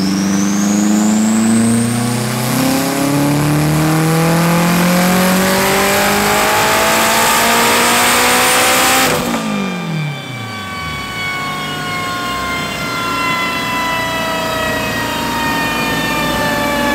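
Turbocharged Honda Civic engine making a full-throttle pull on a chassis dyno. It revs steadily higher under boost for about nine seconds, then the throttle is released and the sound drops off sharply. A falling whine follows as it coasts down.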